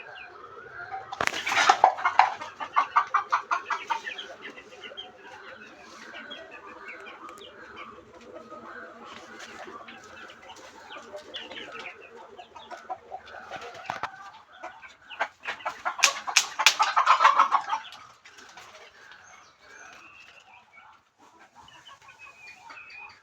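Chickens clucking, with two louder flurries of rapid clucks, about a second and a half in and again around sixteen seconds in.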